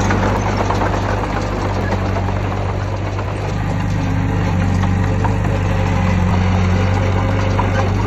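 Heavy diesel engine of earthmoving machinery running steadily at a low pitch, with scattered clanks and rattles. It eases off slightly about three seconds in, then picks up again.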